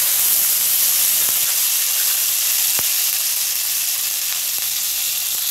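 Paneer cubes frying in hot butter in a pan: a steady, high sizzling hiss that eases slightly over the few seconds, with a faint tick about halfway through.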